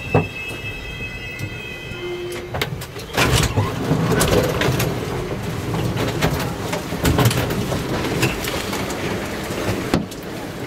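S-Bahn train braking to a stop alongside a platform: a high, steady brake squeal with a lower tone under it stops a little under three seconds in as the train halts. Then a louder, noisy clatter and bustle with many knocks follows, as passengers crowd through the open door, with a sharp click near the end.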